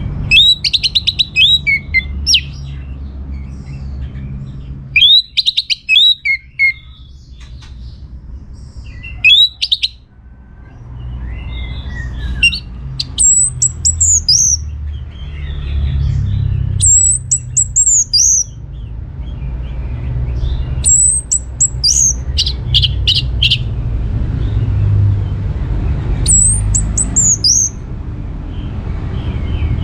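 Orange-headed thrush singing: short phrases of quick, high sweeping notes, repeated about every four seconds, over a steady low rumble.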